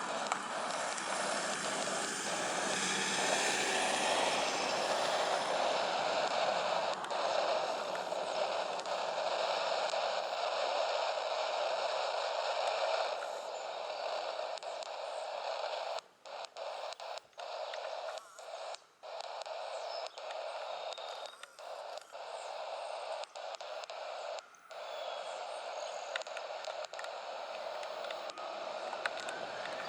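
Boeing 737-800 jet engines running with a steady rushing roar on or just after take-off, slowly fading, with the sound cutting out briefly several times in the second half.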